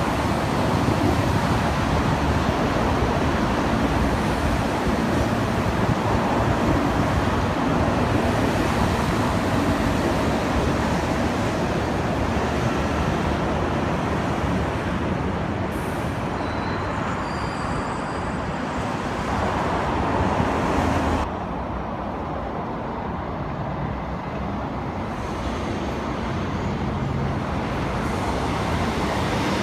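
East Rail Line electric multiple unit trains running on the tracks below, a steady rumble of wheels on rail mixed with wider background noise. The noise drops suddenly about two-thirds of the way through, then builds again slowly as another train approaches.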